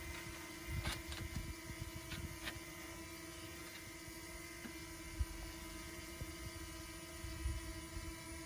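A steady mechanical or electrical hum with several constant tones over a hiss, broken by irregular low rumbles and knocks.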